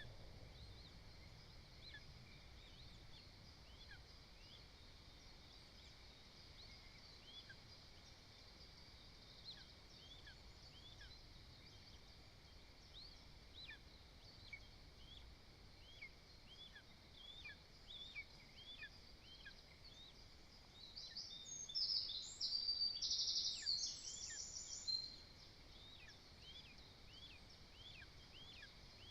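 Birds calling: a faint, steady run of short chirps, with a louder burst of rapid, higher song lasting about four seconds some three-quarters of the way through.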